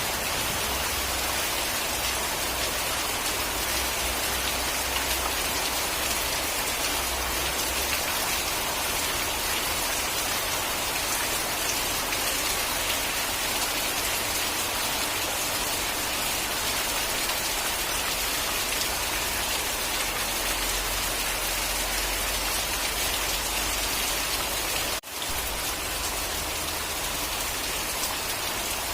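Steady rain falling on a surface, an even hiss of many drops, with a split-second drop in level near the end.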